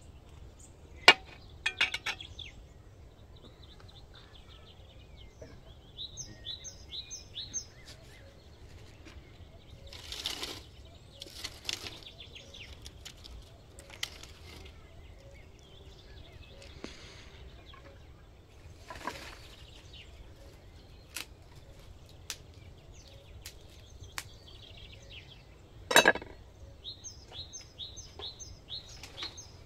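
A small bird singing a quick run of five or six high notes, twice. Between the runs come a few sharp knocks and brief rustles of hands and a knife working raw lamb kidneys on a wooden cutting board.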